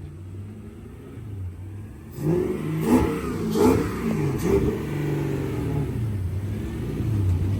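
Car engine accelerating and revving, its pitch rising and falling. It runs quieter at first and gets louder about two seconds in, with a few short sharp bursts over the next couple of seconds.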